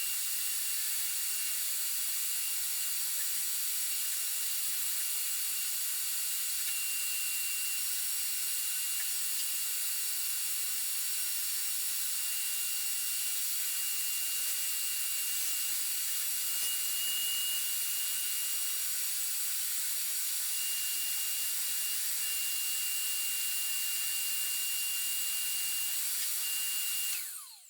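Vacuum cleaner running steadily, a rush of air with a thin high whine. It cuts in at once and stops suddenly near the end.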